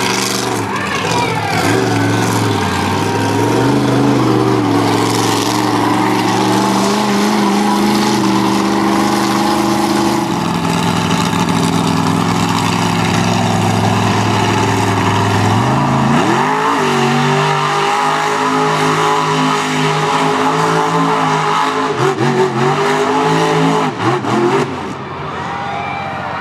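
Monster truck engine running hard under throttle, its pitch holding and shifting. It revs up sharply about sixteen seconds in, with a few more revs and short knocks near the end.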